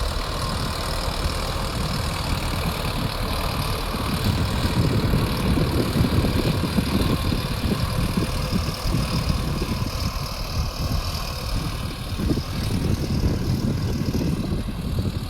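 Sonalika Tiger 65 DI CRDi tractor's diesel engine running steadily while pulling a cultivator through the field.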